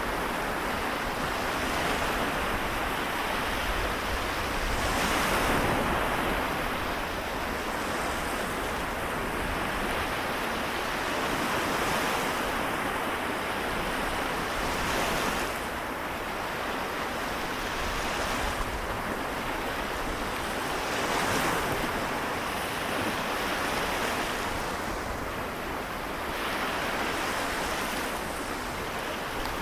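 Small waves of the Seto Inland Sea washing onto the shore, a steady wash with a swell every few seconds as each wave breaks and runs back.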